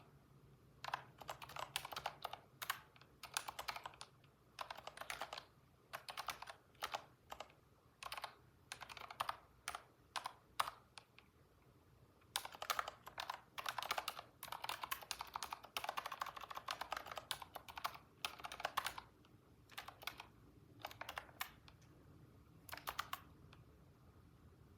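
Typing on a computer keyboard in quick bursts of key clicks, broken by short pauses, stopping about a second before the end.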